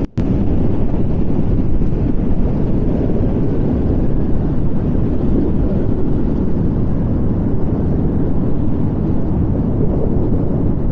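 Strong wind buffeting the microphone: a steady, loud low rumble, with a momentary dropout just at the start.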